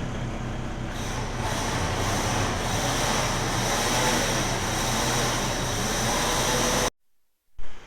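Steady mechanical running noise, like a vehicle engine running, with a broad hiss over a low steady hum; it cuts off abruptly near the end.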